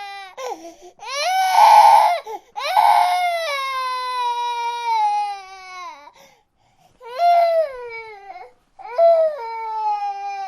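A baby crying in a run of wails, each sliding down in pitch, with short catches of breath between them. The longest wail lasts about three and a half seconds, and two shorter, louder cries follow after a pause of about a second.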